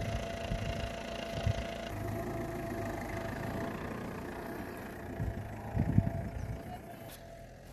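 A compact SUV's engine idling steadily, with a few short low thumps about a second and a half in and again near the end.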